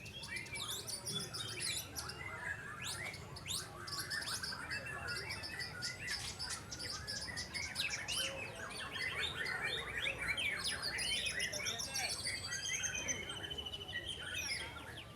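Several caged white-rumped shamas (murai batu) singing at once, a dense overlapping chorus of whistles, fast trills and rapid repeated notes.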